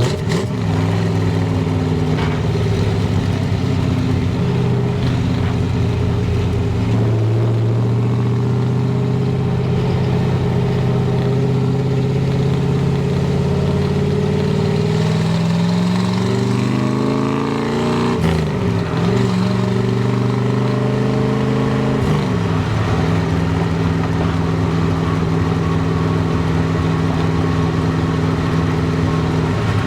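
Exhaust of a 396 big-block V8 in a 1967 Chevrolet Impala SS, heard from the rear bumper while driving. The engine note climbs through the middle, then drops sharply twice, about 18 and 22 seconds in, as the 4-speed manual is shifted, and runs steadily after that.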